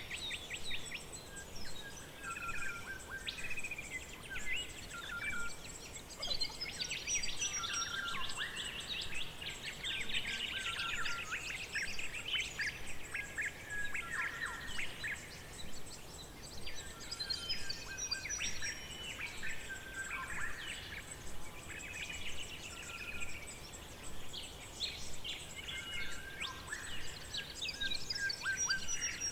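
Forest ambience with several birds chirping, trilling and whistling in overlapping short phrases throughout, over a faint steady high hum.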